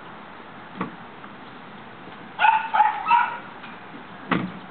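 Coton de Tulear puppy giving three quick, high-pitched yips, with a soft knock shortly before and another just after.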